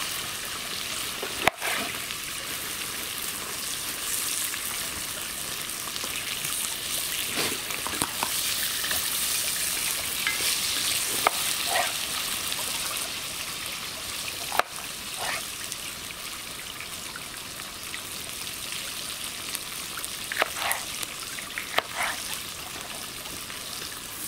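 Steady sizzling of food frying in a cast-iron pot over a campfire, with a few sharp clicks scattered through it.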